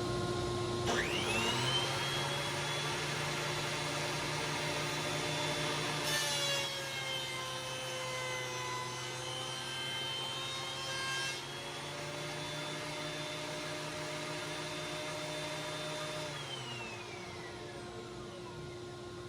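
Laguna PX12 benchtop planer, a straight-knife model: its motor spins up with a rising whine about a second in. A board is fed through from about six to eleven seconds, and the whine drops in pitch under the cut, then recovers once the board clears. The motor is switched off near the end and winds down, over the steady hum of a vacuum on the dust port.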